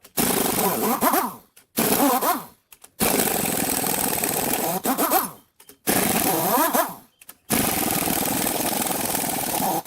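Pneumatic impact wrench run in five bursts of one to two seconds with short pauses between, each burst ending in a brief whine as the air motor spins down, as bolts are taken off for disassembly.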